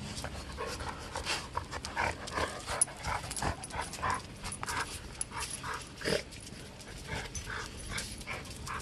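A dog panting, with many short, irregular sounds.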